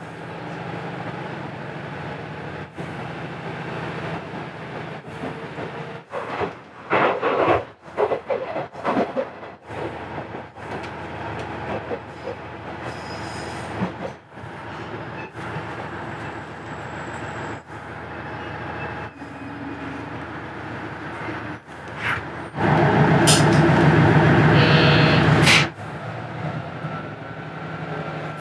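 Ride noise of a diesel railcar on the Hanawa Line: engine and wheels on the rails, heard in short clips that cut off and restart abruptly. About 23 s in there is a louder stretch lasting roughly three seconds.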